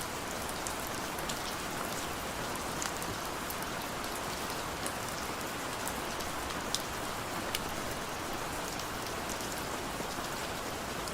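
Heavy rain falling steadily: a dense, even hiss with scattered sharp ticks of individual drops striking close by.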